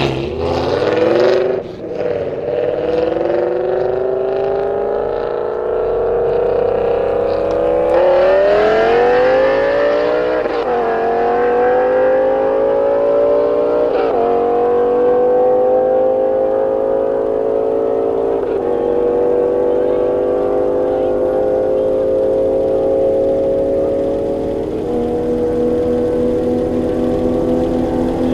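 BMW car engine accelerating hard through the gears. The pitch climbs in each gear and drops sharply at four upshifts, each gear pulling longer and rising more slowly than the last.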